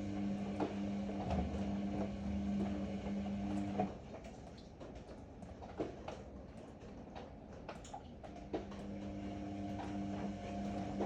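Ariston AML125 washer-dryer's drum motor running with a steady hum, stopping about four seconds in and starting again about four seconds later, the pause typical of a drum turning one way and then the other. Light knocks and clicks sound throughout.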